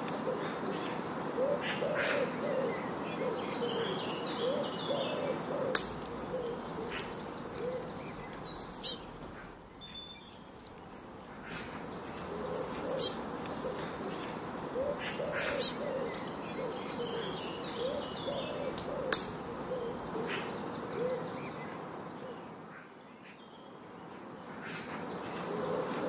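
Birds calling: many low, wavering calls repeated one after another, with several short bursts of high, thin chirps in the middle.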